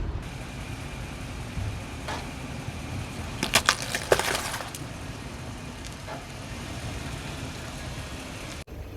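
A car tyre rolling over and crushing objects: a few crunches and cracks, the loudest cluster about three and a half to four and a half seconds in, over the low steady rumble of the car.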